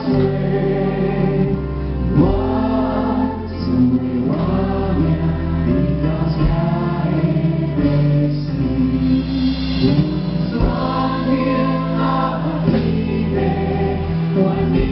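A large mass choir singing a slow, hymn-like song together.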